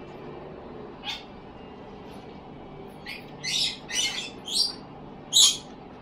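A bird giving harsh, scratchy calls: one short call about a second in, then a run of about five calls roughly half a second apart.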